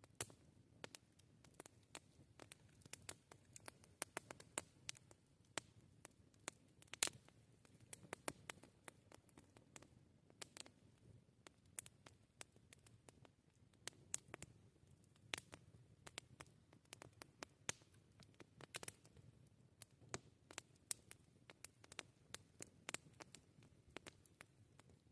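Wood campfire crackling: irregular sharp pops and snaps, several a second, over a faint low rumble of the burning wood, with one louder pop about seven seconds in.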